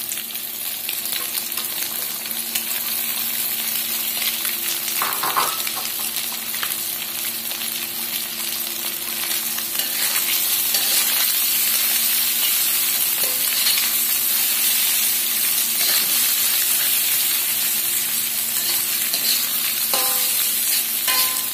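Sliced sausage frying with scrambled egg in a hot wok: a steady sizzle that grows a little louder about halfway through, with a metal spatula scraping and knocking against the wok as the food is stirred.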